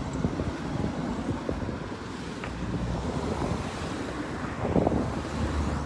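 Wind buffeting the microphone over a low rumble of road traffic.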